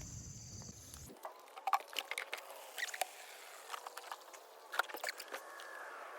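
Crickets chirring steadily until about a second in, then a run of scattered light clicks and taps.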